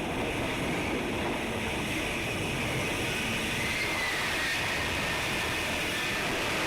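F-35 Lightning II jet engine running at high power: a loud, steady rushing noise with a faint whine that drops slightly in pitch partway through.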